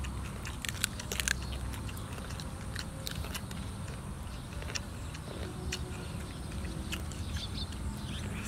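Two boys chewing and smacking their lips while eating fried fish, with many short, sharp mouth clicks, the loudest about a second in, over a steady low hum.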